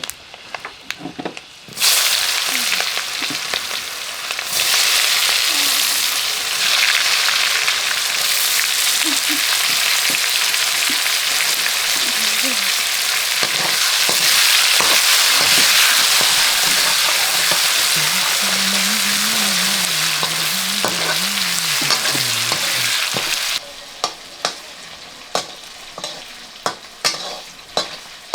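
Food frying in hot oil in a cooking pan: a loud sizzle starts suddenly about two seconds in and runs on steadily, then drops away abruptly near the end. Clicks and knocks of stirring in the pan are heard before and after the sizzle.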